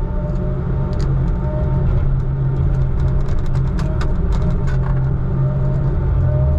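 Log truck's diesel engine running steadily under way, heard from inside the cab, with a few sharp rattles or clicks around the middle.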